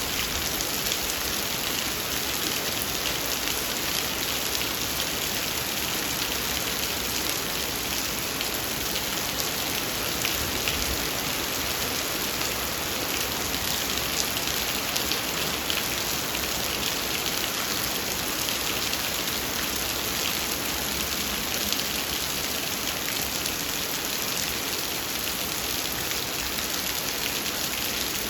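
Heavy rain falling steadily, a dense even hiss of drops on a hard surface with many fine patters.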